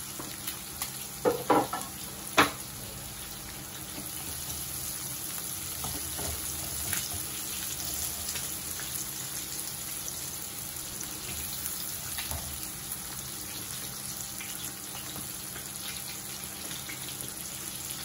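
Chopped onion and garlic sizzling steadily in oil in a frying pan, with a few sharp utensil knocks against the pan about two seconds in.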